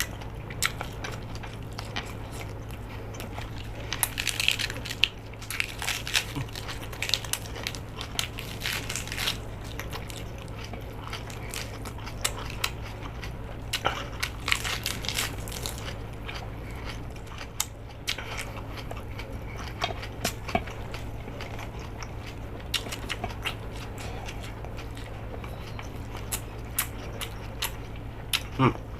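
A person biting and chewing crunchy food close to the microphone, irregular crisp crunches and smacks with denser bursts of chewing now and then, over a steady low electrical hum.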